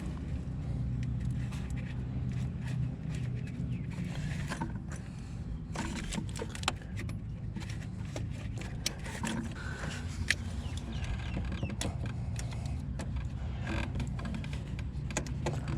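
Small metal clicks, taps and scrapes of a retaining clip being worked onto the end of a gear-shift cable at the gearbox, over a steady low hum.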